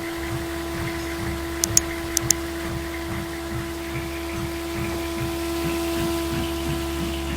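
A yellow airplane making a steady, unchanging hum with a low rumble underneath. Four short, sharp clicks come close together about two seconds in.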